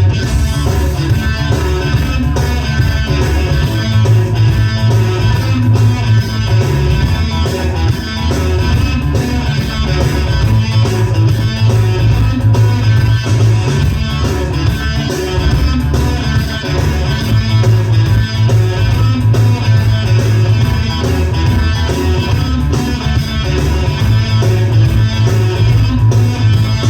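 Rock band playing an instrumental passage: strummed electric guitar over a heavy bass line with drums.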